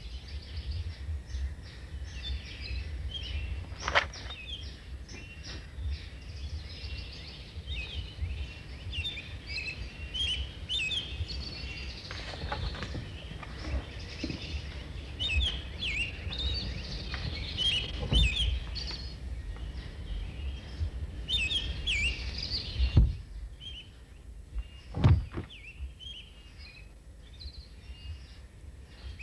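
Birds chirping and calling continuously over a low background rumble. A few sharp thumps stand out, the loudest two close together near the end.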